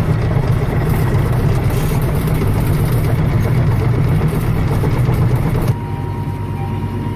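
Heavy farm machinery engine, likely the tractor, running steadily. About three-quarters of the way in the sound drops suddenly to a quieter, steady engine hum with a faint thin whine.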